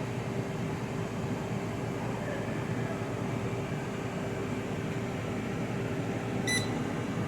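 GE countertop air fryer running, its fan making a steady whir with a constant hum underneath. A short high beep sounds about six and a half seconds in.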